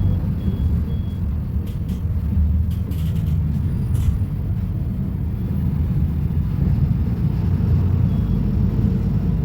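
Volvo B250RLE bus engine running with a steady low rumble. There are a few short sharp clicks or knocks about two to four seconds in, and short high beeps in the first second.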